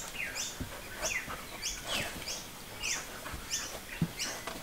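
A bird outside chirping over and over, short high calls about twice a second with some falling notes. Under it are a few soft thuds and rustles from a small dog moving about on a sheet-covered foam bed.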